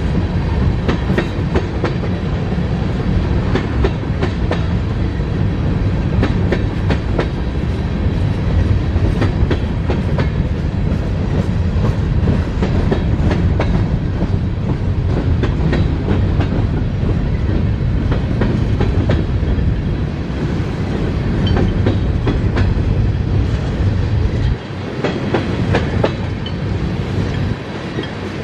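Norfolk Southern freight train rolling past, its cars' wheels clattering over rail joints in a steady clickety-clack over a deep rumble. Near the end the deepest part of the rumble drops away.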